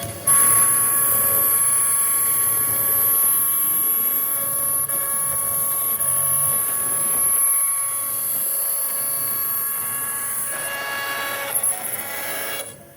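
A small electric power tool running with a steady high whine. It starts suddenly, sounds rougher for the last two seconds, then stops near the end.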